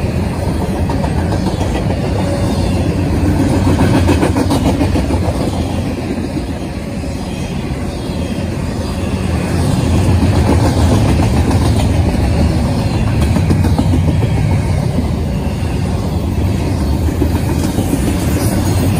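Norfolk Southern double-stack intermodal well cars rolling past close by: a steady, loud rumble and rattle of steel wheels on the rails, with a few clicks of wheels over the track.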